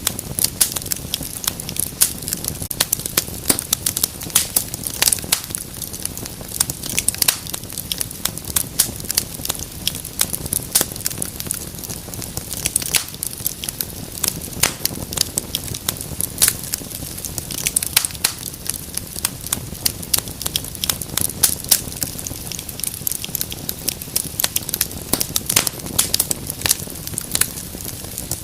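Wood fire crackling: dense, irregular sharp pops and snaps over a low, steady rumble of burning.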